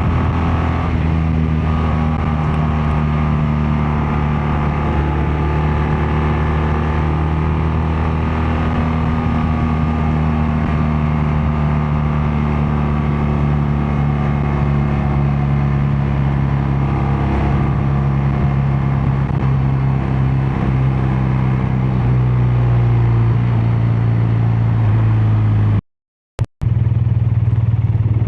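BMW R12 nineT's air/oil-cooled boxer-twin engine and exhaust under way at a steady cruise. The engine note drops lower about three quarters of the way through, and the sound cuts out completely for about half a second near the end.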